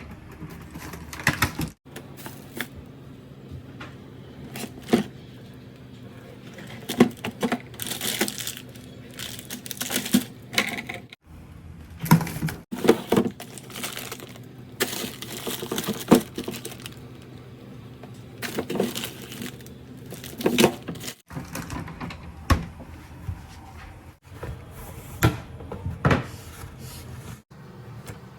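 Irregular knocks, clicks and rustles of objects being handled, picked up and set down, over a faint steady low hum.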